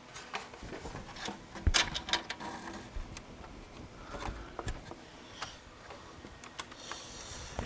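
Irregular light clicks, taps and knocks of a motherboard being handled and fitted into a metal PC case, the strongest knock a little under two seconds in.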